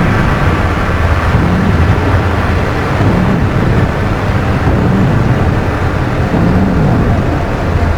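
Dark ambient drone music: a loud, dense, noisy low rumbling drone, with a low tone that bends up and back down in pitch about every second and a half.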